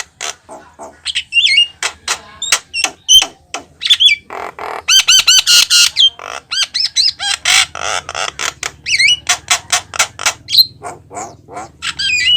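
Javan myna calling busily: a fast run of sharp clicks and harsh squawks mixed with whistled notes that bend up and down, with a quick string of rising notes about halfway through.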